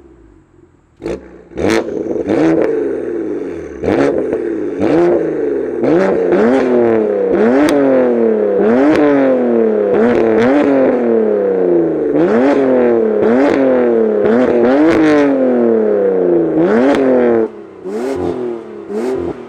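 BMW S55 twin-turbo inline-six in an F8x M3/M4 with an equal-length titanium valved exhaust, free-revved in a rapid series of quick throttle blips, about one a second, each rising and falling back in pitch, with sharp cracks at many of the peaks.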